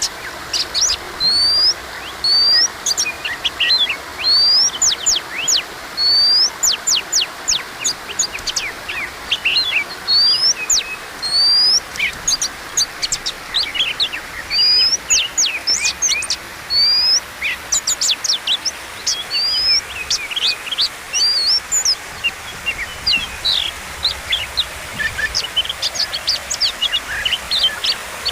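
Oriental magpie-robin singing continuously, a varied song of repeated rising whistles mixed with quick, sharp notes, over a steady hiss.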